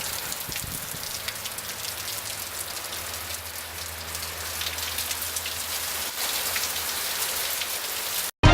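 Steady rain falling on hard surfaces, a dense hiss of many small drop ticks, with a faint low hum beneath it for part of the time; it cuts off abruptly near the end.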